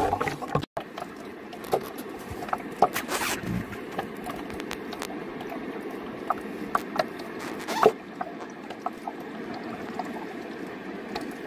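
River stones clicking and scraping against each other as they are handled in shallow running water, over a steady rush of the flowing river, with a few louder knocks about three seconds in and just before eight seconds.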